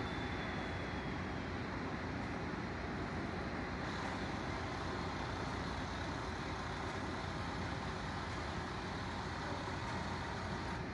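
Steady road-traffic and vehicle noise, an even rumble with no distinct events.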